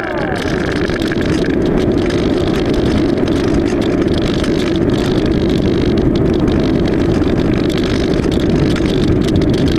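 Steady rushing airflow noise on the onboard FPV camera's microphone of an AXN Floater Jet RC plane in flight, with no clear motor tone.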